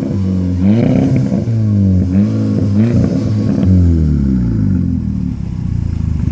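Golf Mk5 GTI's 2.0 TFSI turbocharged four-cylinder, exhaust with the muffler deleted, revved in about four quick throttle blips, each dropping back. After about four seconds the revs sink slowly back toward idle.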